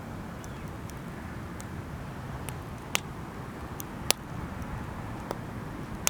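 Wood fire crackling: scattered sharp pops, the two loudest about three and four seconds in, over a steady low rumble.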